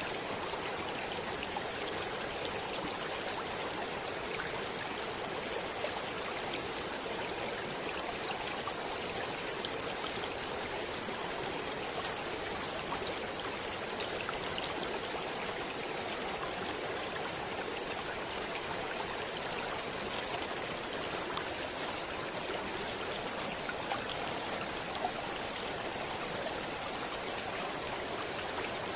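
A small stream flowing and babbling steadily, with scattered faint droplet splashes.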